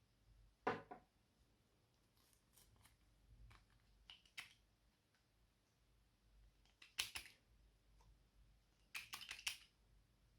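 Slime being squeezed and pulled by hand, making a few faint sticky clicks and pops that come in small clusters, with near silence between them.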